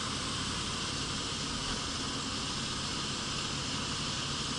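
Steady in-cabin driving noise: a constant hiss of tyres on the road with a low rumble from the car beneath it.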